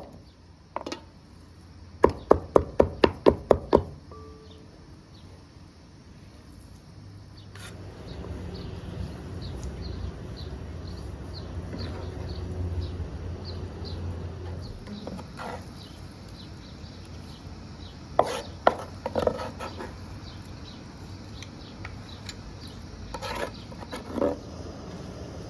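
Knife chopping on a wooden cutting board: a quick run of about eight strokes a couple of seconds in, then a steady low background hum with a few scattered knocks later on.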